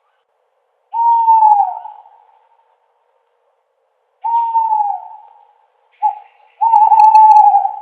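Owl hooting: two drawn-out hoots of about a second each, falling in pitch at their ends, then a short note and a longer, steadier hoot near the end.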